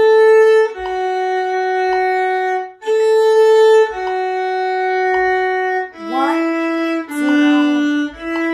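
Solo violin bowing a slow beginner tune in three-time: a short note on the open A string dropping to a long held F sharp on the D string, twice, then a few lower held notes.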